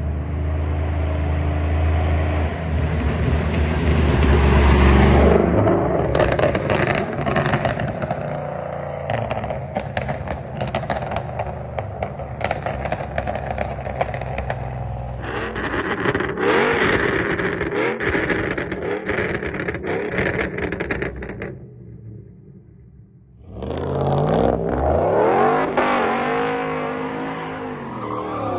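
Straight-piped exhaust of a Ram 1500's Hemi V8 with long-tube headers, run hard and loud, with a stretch of rough crackling in the middle. It drops off briefly about 22 seconds in, then comes back with repeated revs rising and falling.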